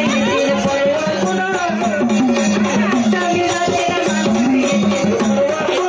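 Marathi devotional folk music of a waghya-murali troupe: a steady melody over jangling, rattle-like percussion with a drum.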